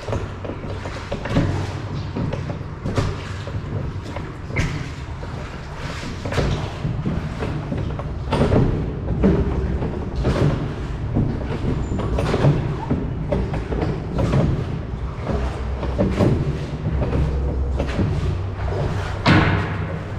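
Oars of a rowing boat splashing and knocking, a stroke about every two seconds, over a low rumble of wind on the microphone.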